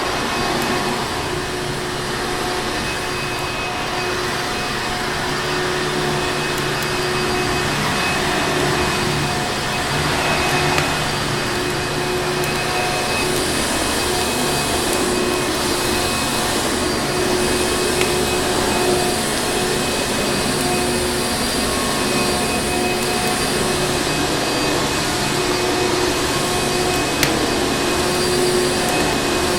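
A vacuum cleaner motor running continuously, a steady whooshing hum with a constant whine, its strength wavering slightly. A few faint crackles of a wood fire sit underneath.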